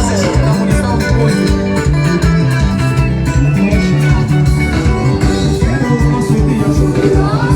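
Live band music with electric guitar over a steady bass line and beat.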